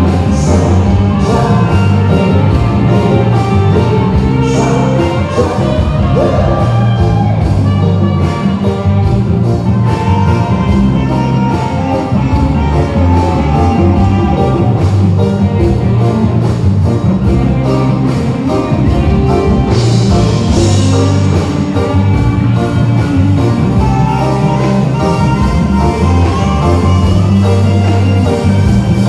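Loud music playing through a PA sound system, with a heavy bass line and a steady drum beat.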